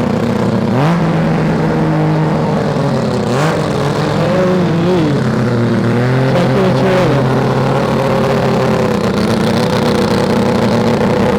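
Car engine running loudly, held at raised revs and blipped up and down several times in the middle, with a few sharp cracks along the way.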